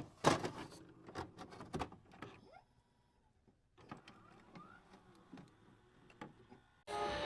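Scattered light clicks and knocks, with two faint short rising squeaks, in a quiet room. A strummed string instrument starts playing near the end.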